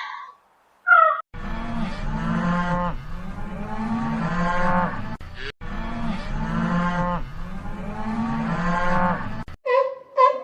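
A cow mooing: long, low, drawn-out calls in two runs of about four seconds each, broken by a short gap in the middle.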